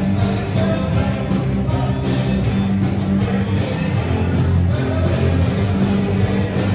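Rock band playing live, with guitar and drums.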